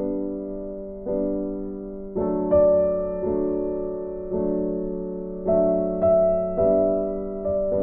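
Background music: slow, gentle piano playing sustained chords, a new chord struck about once a second and left to fade.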